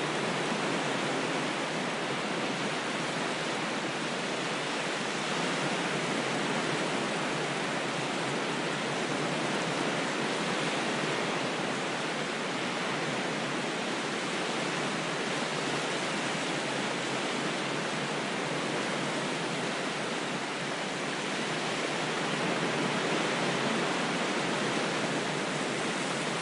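Ocean waves washing ashore, heard as a steady rush of surf that swells gently now and then, with no separate breaking crashes.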